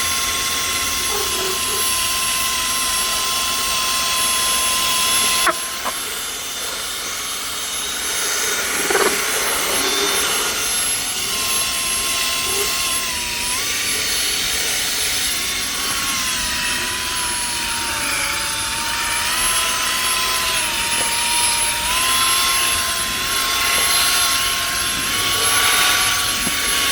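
Upholstery extraction vacuum running with a steady, high whine that shifts slightly in pitch as it works over the fabric, pulling dirty water out of the seat.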